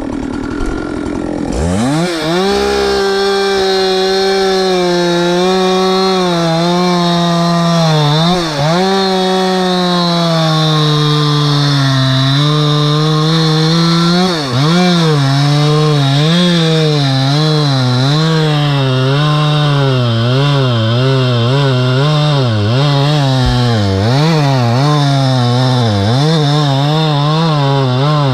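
Two-stroke chainsaw revving up a little under two seconds in, then running flat out and cutting wood. Its pitch sags and recovers as the chain bites, dipping sharply twice and wavering quickly near the end.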